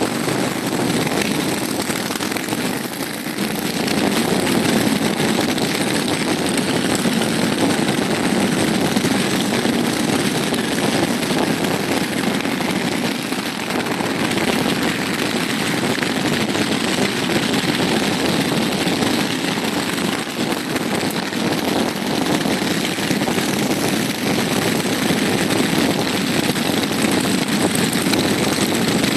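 A large group of motorcycles with their engines running together, a steady mass of overlapping engine sound with no single bike standing out.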